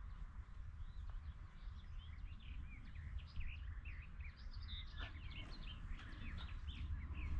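Birds singing: many short, quick chirps and whistled notes, with a low steady rumble underneath.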